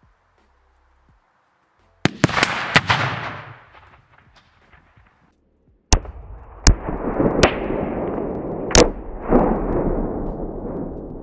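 Rifle shots and Tannerite explosions set off in a propane tank with gasoline. A quick cluster of sharp blasts comes about two seconds in, then a short lull. About six seconds in another blast comes, then several more sharp cracks over a long rushing roar that slowly fades.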